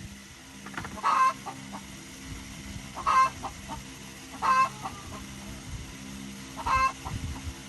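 A chicken calling repeatedly: four loud, short calls about one and a half to two seconds apart, over a steady low hum.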